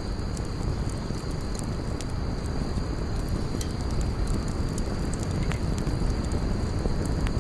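Bonfire burning with a steady low rumble of flames and scattered sharp crackles and pops of burning wood.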